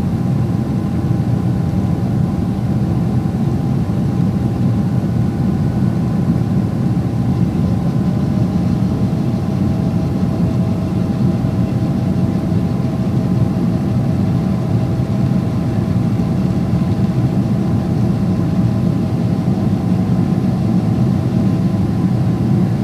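Cabin noise of a Boeing 777-300ER under power: the GE90 engines and airflow make a loud, steady low drone, with a faint steady whine entering about nine seconds in.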